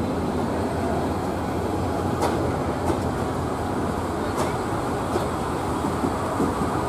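Local commuter train rolling into a station: a steady rumble of the moving train, with a few sharp clicks scattered through it.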